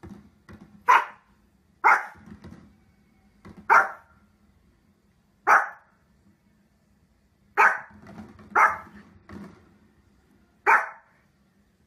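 A Pomeranian barking: seven sharp, single barks spaced one to two seconds apart, with softer low sounds between them.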